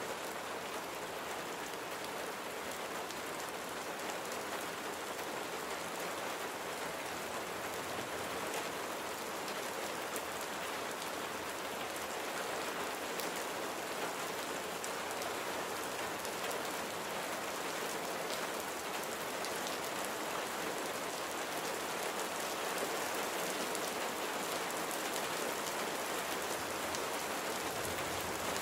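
Steady rain falling, a dense even patter of drops on surfaces with scattered sharper drop ticks.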